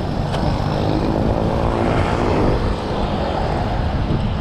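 Wind rushing over the microphone of a camera riding along on a moving road bike, a steady, deep rumble, with road traffic around. A faint humming tone swells and fades around the middle.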